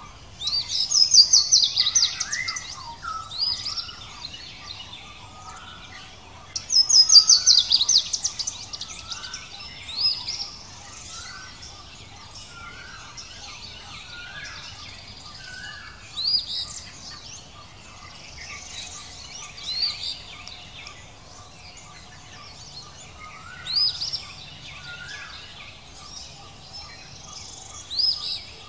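Birds singing and calling: two loud bursts of rapid, high, falling notes about a second in and again about seven seconds in, then short sharp high calls every few seconds, with a softer, lower call repeating in between.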